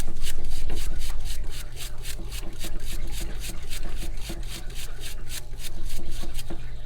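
Quick, steady back-and-forth scrubbing strokes, about four or five a second, on a metal carburetor part being cleaned by hand, over a steady low hum.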